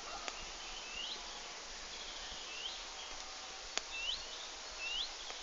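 A small bird calling repeatedly: short upward-sweeping chirps, roughly one a second, over a steady woodland background hiss. Two sharp clicks cut in, a faint one near the start and a louder one near four seconds in.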